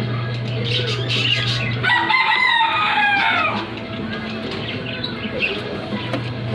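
A rooster crowing once, a call of about a second and a half that starts about two seconds in, over a steady low hum and scattered light clicks.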